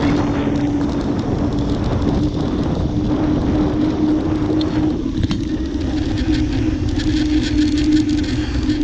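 Wind rushing over the microphone with road rumble from a bicycle in motion, and a steady hum throughout.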